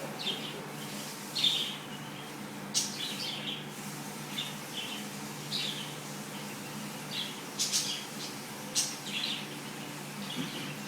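Pet cockatiel giving short, scattered chirps, about one a second, with a few sharp clicks among them, over a steady low hum.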